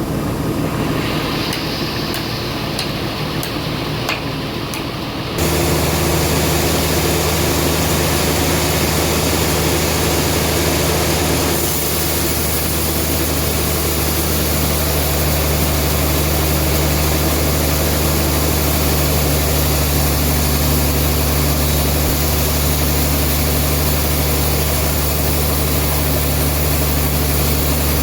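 Band sawmill running with a steady low hum. For the first five seconds or so it is quieter, with a few clicks, then the level steps up suddenly and the machine runs on evenly.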